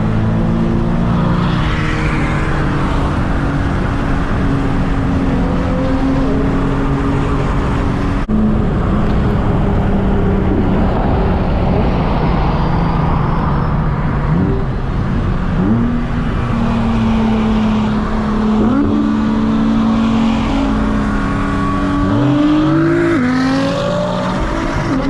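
Car engine running under way, its pitch rising briefly several times as it accelerates. There is an abrupt break about eight seconds in, and a longer climb that falls away near the end.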